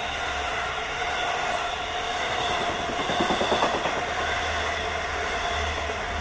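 Long Island Rail Road train passing at speed, with a steady whine and a quick run of wheel clatter over rail joints about three seconds in.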